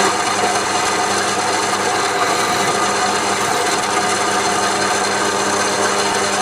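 A power tool running steadily under load, working metal with an even rasping noise over a faint motor hum.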